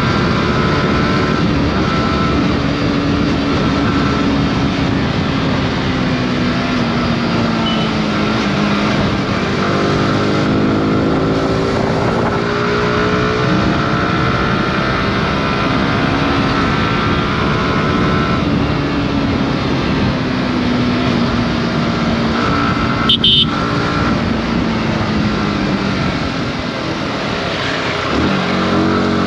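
Yamaha R15 V4's 155 cc single-cylinder engine running under way, its revs rising and falling over and over as it accelerates and eases off in traffic, over a steady rush of wind and road noise. A brief sharp blip cuts in near the end.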